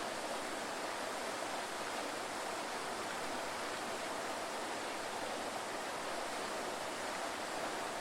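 Waterfall: steady rushing of falling water, an even hiss with little deep rumble.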